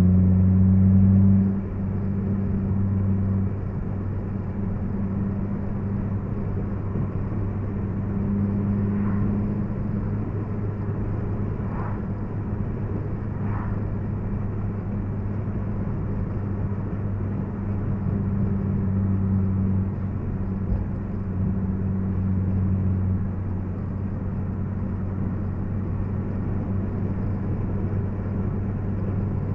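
Honda Civic Si's 2.0-litre K20Z3 four-cylinder engine running steadily at cruise, with road and tyre noise, heard from inside the cabin. The engine hum is louder at first and eases about a second and a half in.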